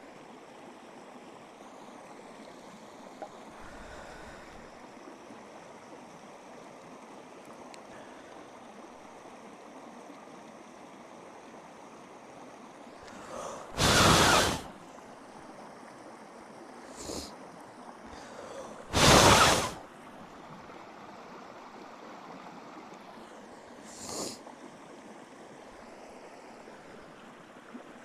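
A steady rushing hiss, with two loud breathy blasts about five seconds apart and two fainter puffs between and after them, like a person breathing out hard.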